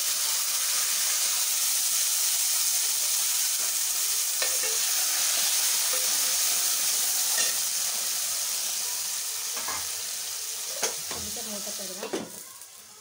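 Chopped tomatoes sizzling hard as they hit hot oil in a metal pan, with a spatula scraping and clicking now and then as they are stirred. The sizzle slowly dies down, and near the end the pan is covered with its glass lid and the sound drops away.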